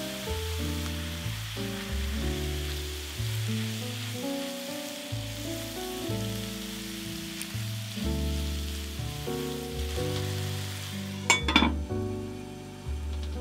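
Food sizzling as it fries in a pan, under background music of held, changing notes. Near the end come a few sharp knocks, and the sizzle drops away after them.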